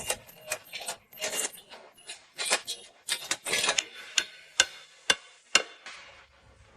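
Hand tools at work: irregular sharp clicks and knocks, about one or two a second, mixed with a few short scraping rubs.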